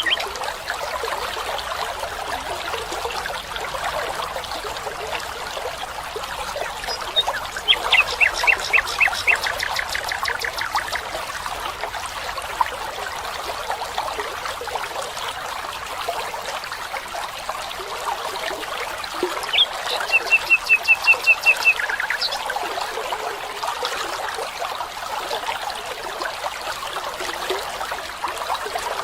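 Water trickling steadily, with a bird singing a fast trill of repeated notes twice, about eight seconds in and again about twenty seconds in.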